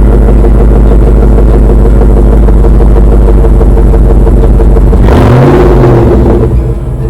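2007 Chevrolet Tahoe's 5.3-litre Vortec V8 idling loudly, with one rev about five seconds in that rises and falls back to idle.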